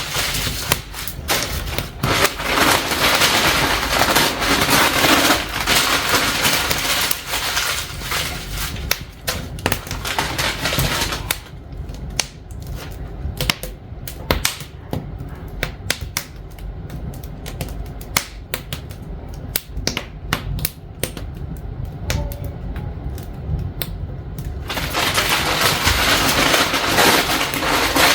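Newly lit wood fire crackling and popping, with sharp irregular snaps while the kindling catches. A dense hiss lies under the pops for the first eleven seconds or so and again near the end, and drops away abruptly in between.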